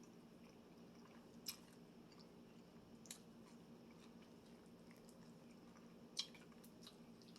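Faint wet chewing of sauce-soaked fried chicken and fries, with three sharper mouth clicks or smacks at about one and a half, three and six seconds in, over a low steady room hum.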